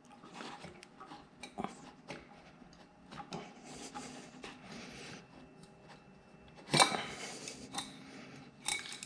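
Light metallic clicks, clinks and scrapes of hand tools and small engine parts while a piston is worked off its connecting rod on a Harley Evo engine. A louder metal clatter comes about seven seconds in, and another near the end.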